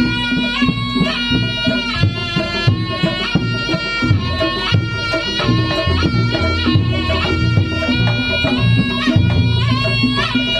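Reog Ponorogo ensemble playing: a reedy slompret shawm carries a sliding, ornamented melody over drums and a steady low tone.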